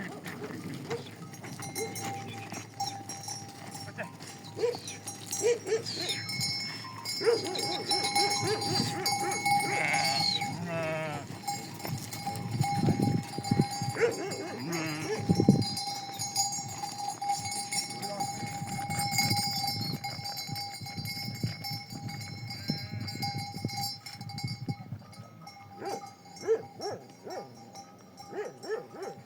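A goat herd with bells ringing steadily at their necks, and goats bleating now and then, with a long wavering bleat about ten seconds in.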